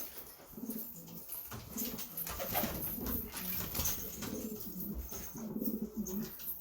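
Domestic pigeons cooing: a run of low, rolling coos, one after another.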